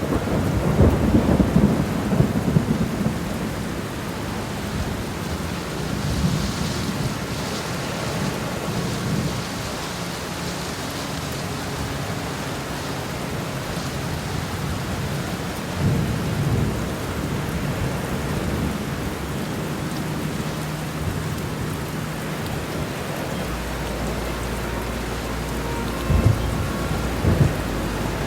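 Thunderstorm: steady heavy rain with rolls of thunder, one about a second in and another midway, and two short, sharper thunder cracks near the end.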